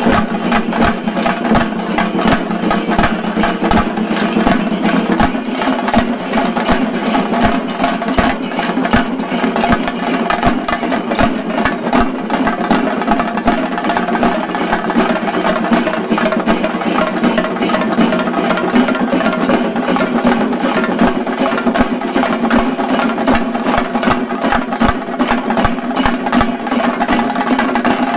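Shinkarimelam ensemble of chenda drums beaten in a rapid, dense, unbroken rhythm.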